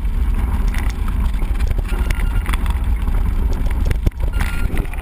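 Mountain bike ride heard from the bike or rider: heavy wind buffeting on the microphone with the rattle and clatter of the bike over rough ground.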